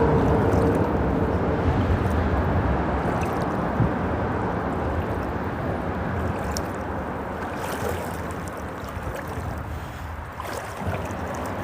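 Water swishing and sloshing around a wader's legs as he shuffles his feet forward through a shallow creek, slowly easing off.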